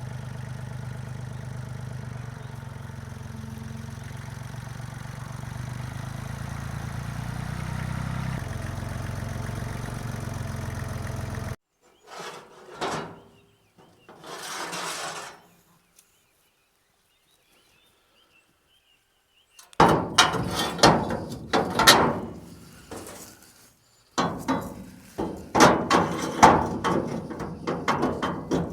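Yanmar FX20D compact tractor engine running steadily for about eleven seconds, growing a little louder, then cutting off abruptly. After a silent gap, a run of sharp knocks and clatter takes over for the last several seconds.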